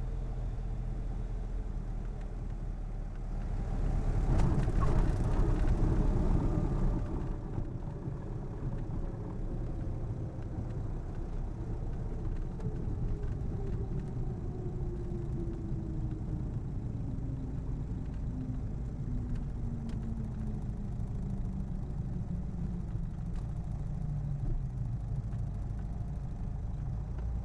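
Cockpit sound of a Cessna 177RG Cardinal landing: the engine runs at low power, then about four seconds in a few sharp bumps and a louder rush of rumble mark the wheels touching down. During the rollout a steady tone falls slowly in pitch as the plane slows.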